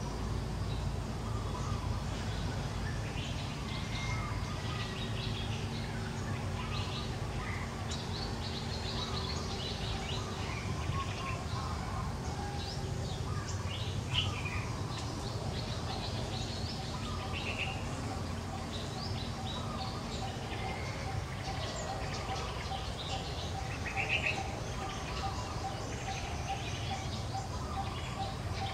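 Small birds chirping in short, scattered calls over a steady low rumble of outdoor background noise, with a fast-pulsing high note joining about halfway through.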